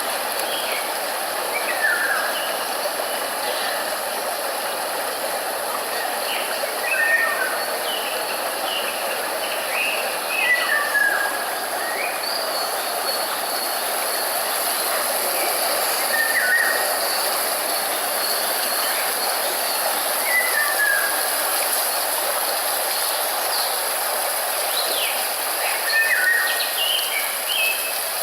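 Steady, even hiss of nature-style white noise, like rushing water or rain, with small birds chirping over it now and then, short calls that drop quickly in pitch.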